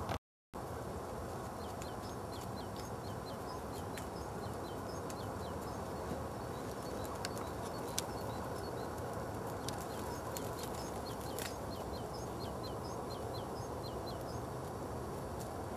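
Small birds chirping over and over, short high notes that each slide downward, over a steady background rush of outdoor noise, with a few sharp clicks.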